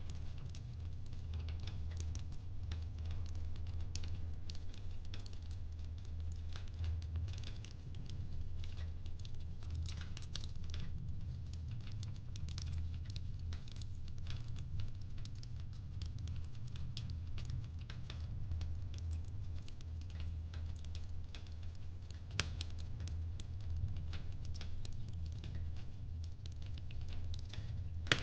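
Fireplace crackling: many small pops and snaps over a steady low rumble.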